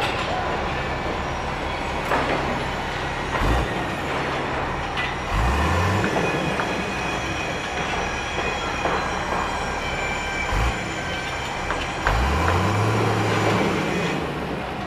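Heavy construction machinery at work: a steady mechanical din with metallic squealing and occasional clanks, and a heavy engine revving up twice.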